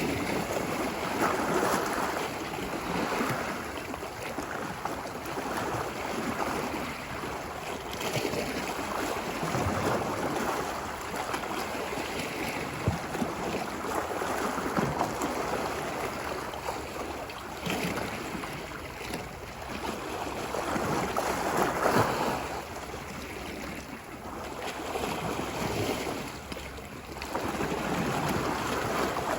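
Ocean waves washing ashore on a beach, surging and easing every few seconds in a steady rush of surf.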